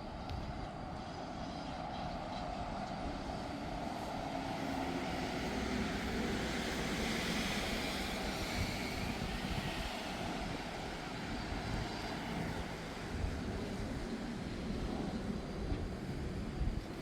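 A passing vehicle: a steady rumble and hiss that builds to a peak about halfway through and then eases off.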